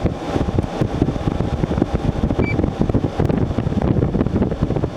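General Electric 12,000 BTU window air conditioner running on one of its fan settings, its blower pushing a steady rush of air with a rapid, uneven flutter. Its fan speeds sound only slightly different from one another.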